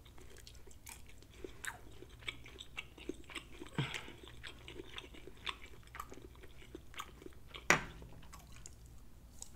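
Close-miked chewing of a bite of tender, juicy pork chop: soft, irregular wet mouth clicks and smacks, with a couple of sharper, louder clicks, the loudest near the end.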